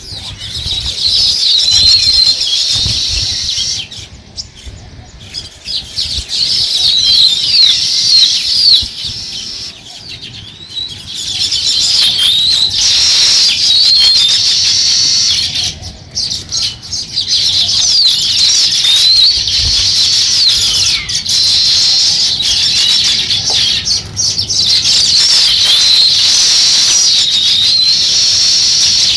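A flock of small songbirds chirping and chattering, many calls overlapping densely. The chatter eases briefly a few times.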